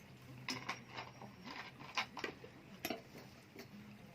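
Light clicks and taps of tableware being handled at a dinner table, about eight short knocks at uneven intervals.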